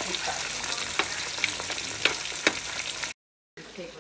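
Fish frying in a pan of hot oil, a steady crackling sizzle with a few sharp clicks from a utensil. The sound cuts off suddenly about three seconds in.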